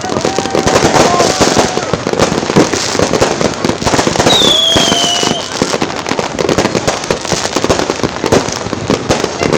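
Fireworks going off: dense, rapid popping and crackling of firecrackers throughout, with a falling whistle about four and a half seconds in.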